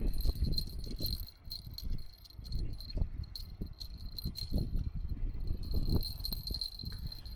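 Wind gusting on the microphone, with irregular knocks and rattles of fishing tackle being handled and a steady faint high jingle, like a small bite bell on a rod tip.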